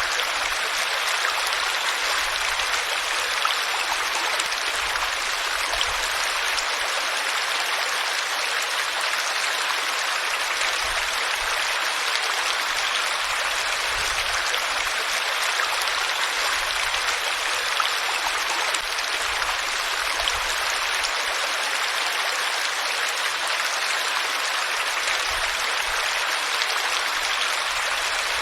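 Steady rushing of flowing water, an even splashing hiss with little low rumble, unchanging throughout.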